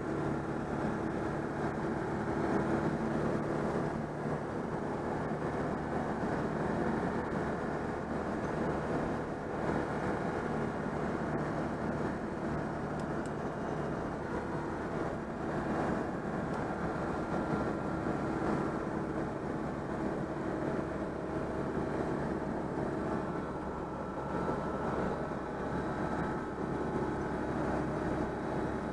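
Citroën 2CV's air-cooled flat-twin engine running steadily at full throttle, with road and wind noise, as the car overtakes. The engine has just been overhauled.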